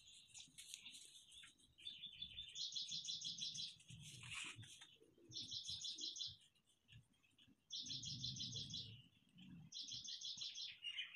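A bird chirping, with four quick trills of rapid high chirps about two seconds apart between quieter single chirps.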